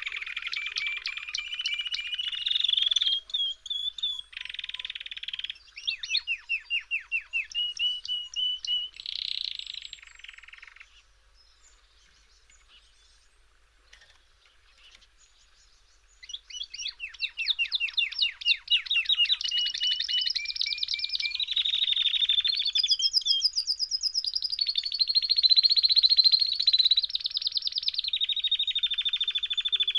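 A small songbird singing long runs of fast trills and rapidly repeated high notes. It pauses for about five seconds in the middle, then resumes with a continuous rolling song.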